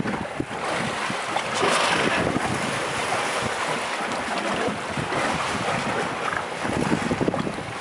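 Wind buffeting the microphone over the sound of sea water washing against a small boat, in uneven gusts.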